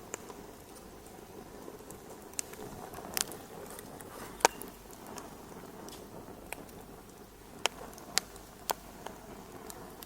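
Wood fire crackling in a fireplace: a low steady rushing noise of burning, broken by sharp irregular pops, the loudest about halfway through.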